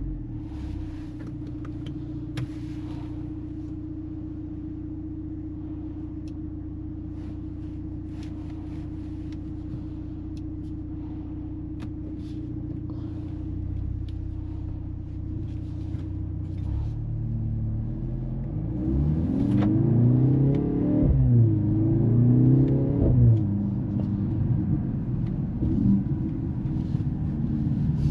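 Mercedes-AMG GLC 43's turbocharged four-cylinder engine idling steadily. About two-thirds of the way through it pulls away and accelerates, its pitch rising and dropping back several times as the gearbox shifts up.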